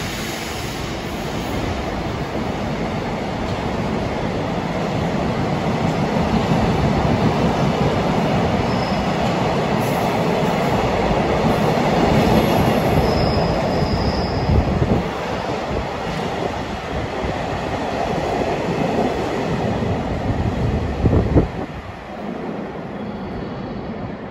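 Freight train's container wagons rolling past at speed, wheels running loud on the rails with a brief high squeal about halfway. A sharp knock near the end as the last wagon goes by, then the rolling noise drops away.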